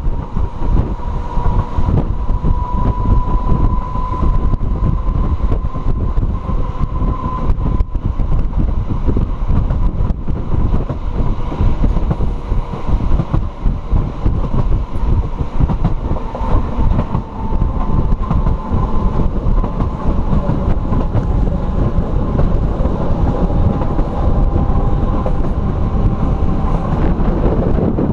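Euskotren UT200 electric train running at speed, heard at an open window with wind on the microphone: a dense rumble of wheels and running gear under a high, steady whine that slips a little lower near the end.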